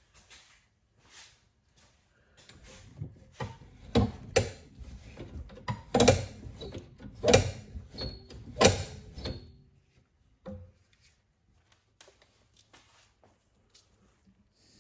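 Irregular clicks and knocks of hand tools and metal parts being handled, with a handful of sharper strikes in the middle, then settling to a few faint ticks.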